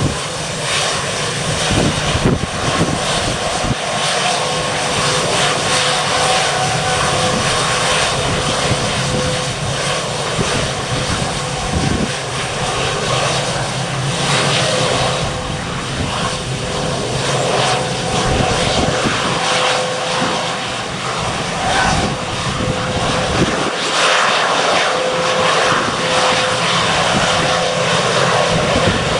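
Airliner engines running steadily, with gusty wind buffeting the microphone in irregular low thumps.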